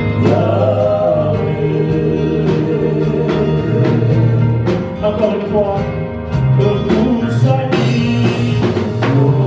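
Live gospel worship music: voices singing together over a band with a steady drum beat and sustained bass.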